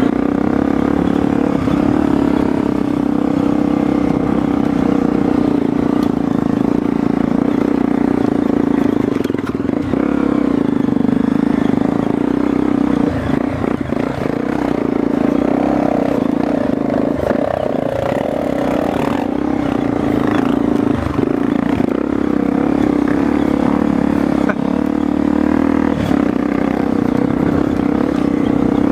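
Motorcycle engine running at a fairly steady speed while being ridden on a dirt trail, its note dipping briefly a few times, with scattered knocks and rattles over the ground.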